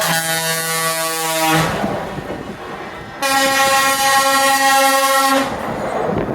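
Two long blasts of truck air horns, one lower-pitched at the start and a higher-pitched one from about three seconds in, each held steady for about two seconds, with passing-vehicle rumble between them.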